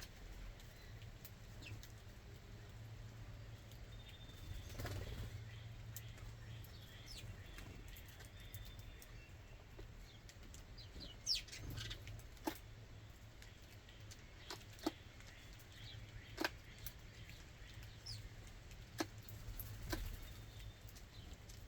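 Birds at a ground feeding spot: scattered sharp clicks and brief wing flutters, mostly in the second half, with a few faint high chirps over a low steady hum.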